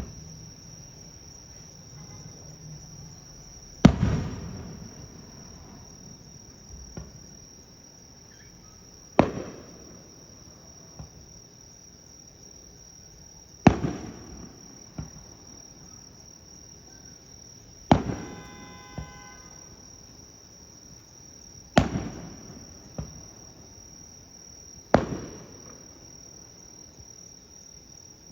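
Aerial firework shells bursting: six loud bangs a few seconds apart, each fading off with a fainter echoing report about a second later. Under them, insects keep up a steady high-pitched chirping chorus throughout.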